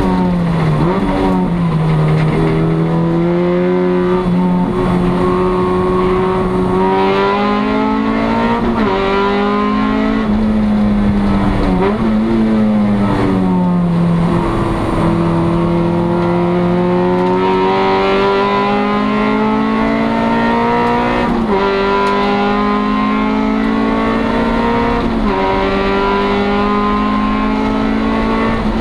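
A 1996 Acura Integra race car's four-cylinder engine, heard from inside the stripped cabin, running hard. Its pitch climbs slowly and, several times, drops sharply and climbs back.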